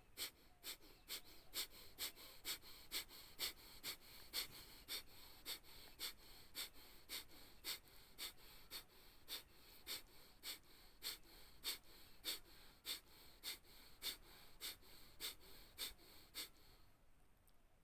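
Kapalbhati breathing: a person's short, forceful exhalations through the nose, each a sharp puff, repeated about two a second. The puffs are faint and stop about a second and a half before the end.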